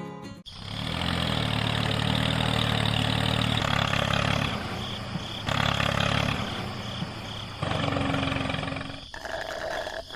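An engine running steadily, its level dropping and rising again a few times, then cutting off about nine seconds in.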